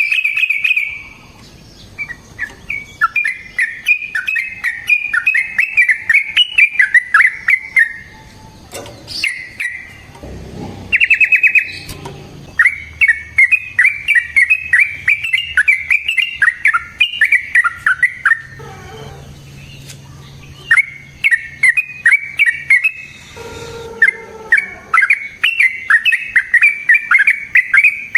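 Yellow-vented bulbul (trucukan) singing long, rapid, bubbling phrases of quick up-and-down notes. The phrases last several seconds each, with short pauses between them.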